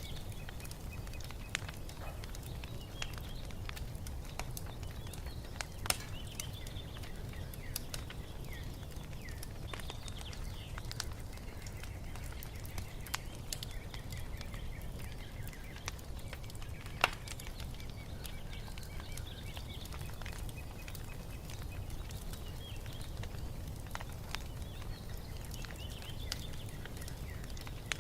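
Wood fire crackling, with scattered sharp pops over a steady low rumble; the loudest pop comes about two-thirds of the way through. Small birds chirp in short repeated phrases throughout.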